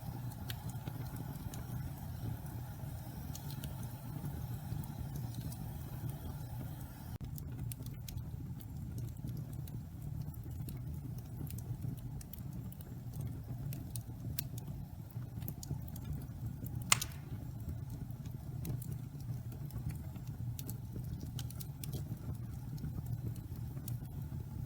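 Wood fire of pine logs burning in a fireplace: a steady low rumble with scattered crackles, and one sharp pop about two-thirds of the way through. The damp wood is heating as it burns.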